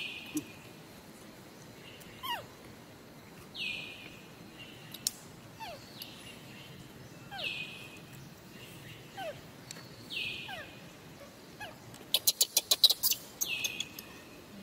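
A bird calling over and over: a short falling note about every three and a half seconds, each with a thin falling whistle just before it. About twelve seconds in comes a loud quick run of about ten sharp clicks.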